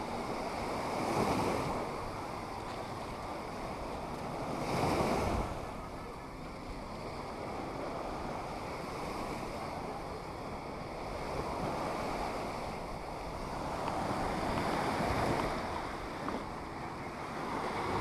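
Black Sea waves breaking and washing up the beach, the surf swelling louder every few seconds, with wind on the microphone.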